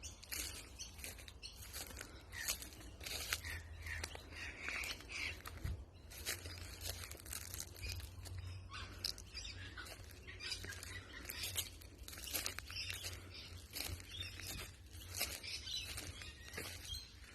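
Pet parrot making short chirps, mixed with scattered clicks and rustling, over a low background hum.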